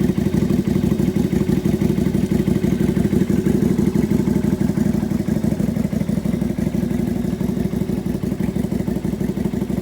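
Lifan Lycan 250 (LF250-D-E) V-twin motorcycle engine idling steadily after a 15,000-mile service, with an even, rapid pulse.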